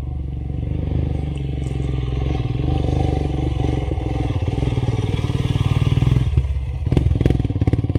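Royal Enfield Himalayan single-cylinder engine pulling hard under load up a steep rocky climb, growing louder, with rocks clattering and knocking under the tyres near the end.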